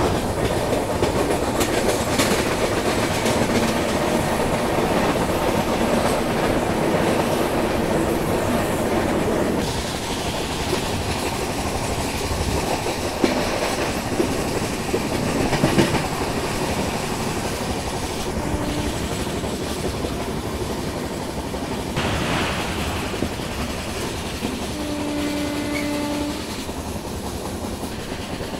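Passenger express train running along the track, heard from on board: a steady rumble of wheels on rail with the clickety-clack of rail joints.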